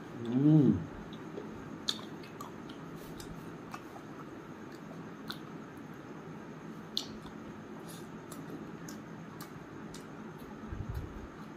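A man chewing and eating rice and curry with his fingers: soft wet mouth clicks and squishes, with a short hummed 'mmm' about half a second in.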